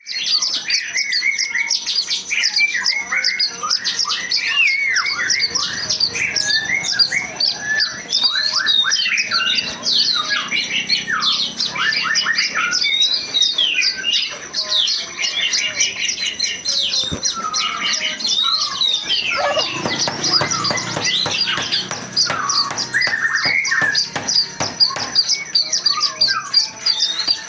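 Many birds chirping and squawking at once, a dense, continuous chorus of overlapping short calls and quick whistled sweeps.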